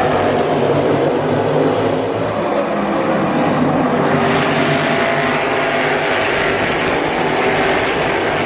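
A field of NASCAR Cup stock cars running at speed around the oval: many V8 engines blending into one steady, loud drone, with no single car standing out.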